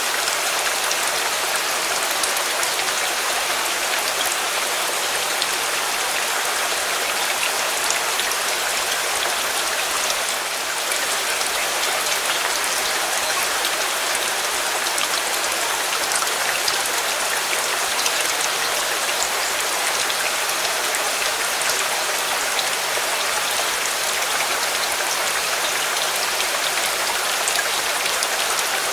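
Steady heavy rain: a dense, even hiss with scattered individual drop ticks.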